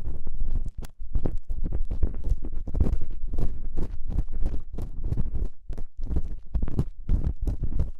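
Ear-cleaning tool scraping and rubbing in an ear, close to the microphone: a quick run of short crackly strokes, several a second, each with a deep rumble.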